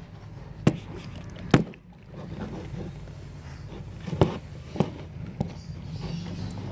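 A handful of short, sharp knocks and taps, irregularly spaced, over a steady low hum.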